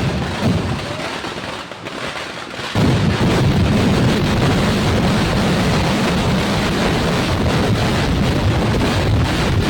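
A continuous rapid barrage of fireworks explosions, cracks running into one another with no gap. It thins out about half a second in and surges back to full strength suddenly just under three seconds in.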